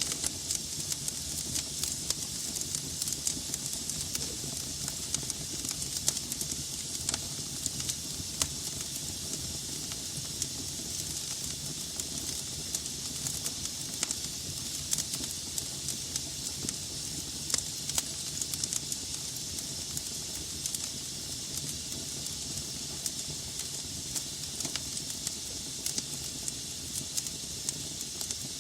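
Wood fire of burning logs crackling steadily over a soft hiss, with frequent small irregular pops.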